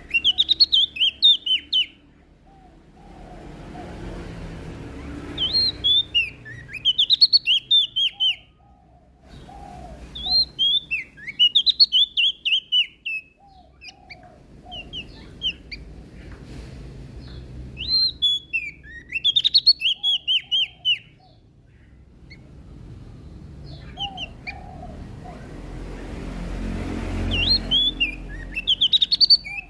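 Prenjak daun (Lombok leaf warbler) singing: five bursts of song, each a rapid run of sharp, mostly falling notes lasting two to three seconds, repeated every few seconds. A low hiss rises between the phrases.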